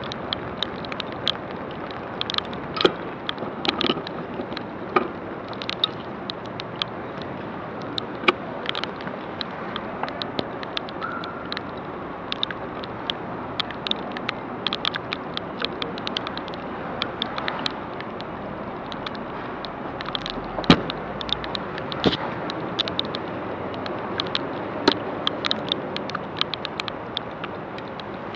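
Rain: many irregular raindrop ticks striking close by, on the camera housing, over a steady hiss of rain, with one louder tick about two-thirds of the way through.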